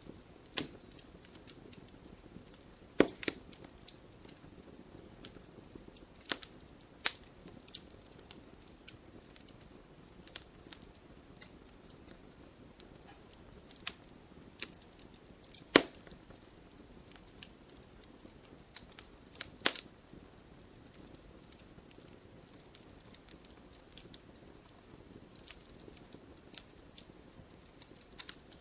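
Wood fire crackling in a fireplace: scattered sharp pops and snaps over a faint hiss, the loudest pops about three seconds in, near the middle, and a few seconds later.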